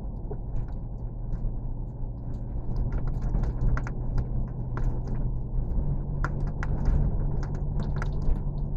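A steady engine drone with a low rumble, its tone stepping up slightly about six seconds in, with light clicks and rattles scattered throughout.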